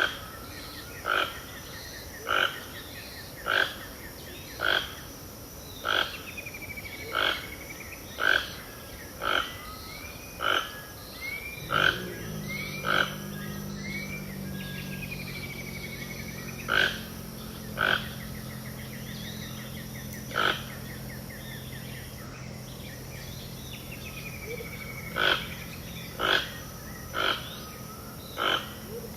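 Pantanal wildlife at dawn: a loud, sharp call repeating about once a second, with curving whistled bird calls between them. About halfway through, a steady low drone with several pitched lines comes in and holds.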